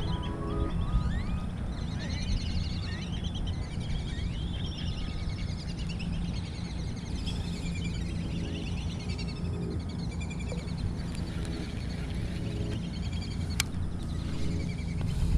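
Many birds chirping and calling outdoors, with quick trills and short rising whistles, over a steady low background rumble. A single sharp click sounds near the end.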